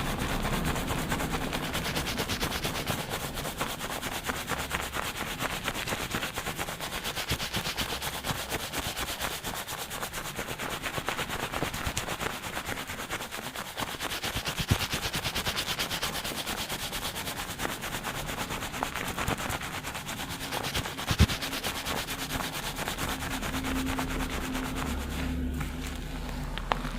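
Fast fingertip scrubbing of a shampoo-lathered scalp and hair, recorded binaurally: a dense, rapid crackling and rubbing of foam that keeps up throughout, with two short sharp clicks.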